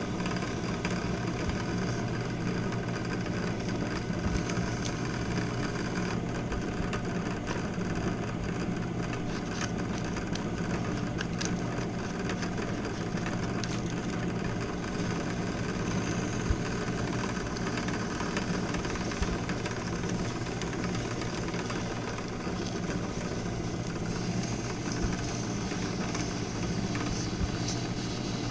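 Drill press running steadily, spinning a key machine motor's shaft while sandpaper is held against it to smooth the shaft: a steady motor hum with a rough sanding hiss over it and a few small ticks.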